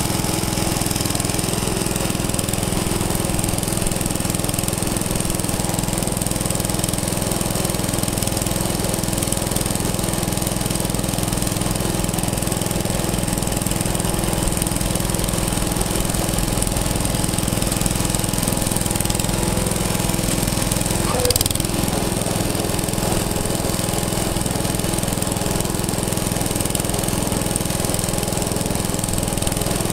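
An engine running steadily with a fast, even low chugging beat. There is a single brief knock about two-thirds of the way through.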